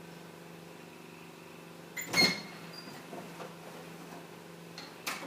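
Steady low electrical hum, broken by a sharp clatter about two seconds in and a few quick clicks or knocks near the end.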